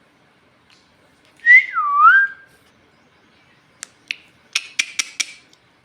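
Pet parrot giving one short whistle that glides up and then dips in pitch, followed a couple of seconds later by a quick run of about six sharp clicks.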